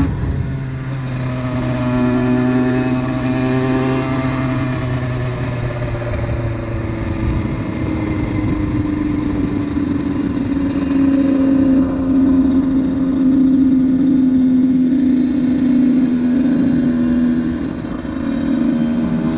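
Honda CR125's two-stroke single-cylinder engine running under way. The note drops at the start, wavers over the first few seconds, then holds and slowly climbs in pitch for a long stretch, dipping briefly near the end before rising again.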